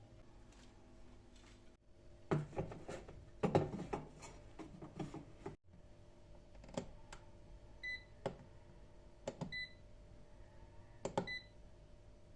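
Kitchen clatter of things being handled for a few seconds, then three short electronic beeps about a second and a half apart, each with a click, as buttons on a kitchen appliance are pressed. A steady low hum runs underneath.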